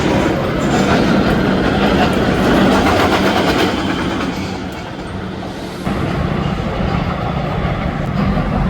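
Roller coaster train running along its steel track: a loud, steady rumble and rattle. It eases off about five seconds in and picks up again about a second later.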